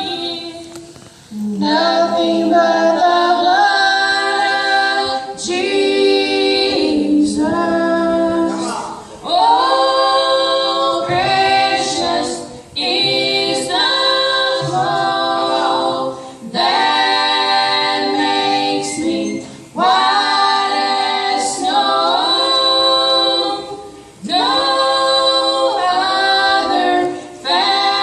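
Gospel choir singing a cappella in close harmony, held chords in phrases of a few seconds with short breaks between them.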